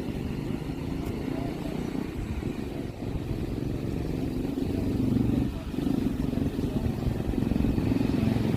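Modified motorcycle engine running under way, its pitch shifting with the throttle. It grows louder about five seconds in, with a brief dip just after.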